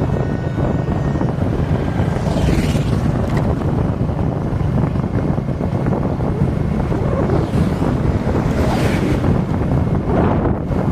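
Wind buffeting the microphone over a steady low road rumble while riding a motorcycle along a highway, with a few short whooshes of passing traffic, about two seconds in and twice near the end.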